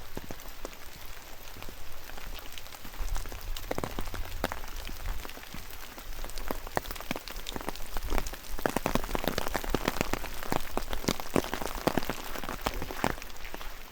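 Rain falling, with many separate drops pattering close by over a steady hiss, growing denser about halfway through. A brief low rumble comes and goes about three seconds in.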